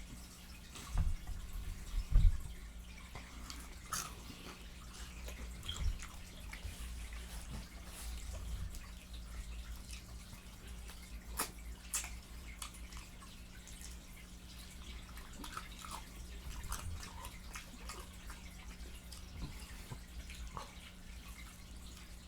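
Someone eating fried chicken close to the microphone: wet chewing and lip smacking, heard as scattered mouth clicks and smacks, with a few louder low bumps in the first couple of seconds.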